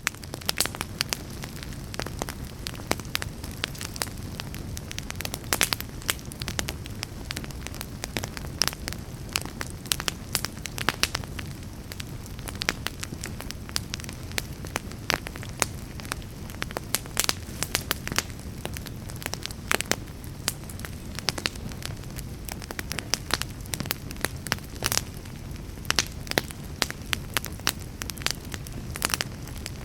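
Wood fire burning in a fireplace: many irregular sharp crackles and pops over a steady low rumble of flames.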